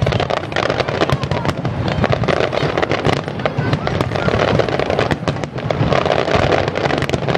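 Fireworks going off in a dense barrage: many bangs and crackles in quick succession with no pause.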